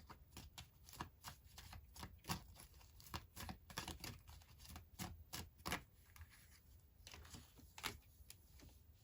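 Tarot cards shuffled by hand: a quiet, irregular run of sharp card clicks, several a second, that thins out in the last few seconds.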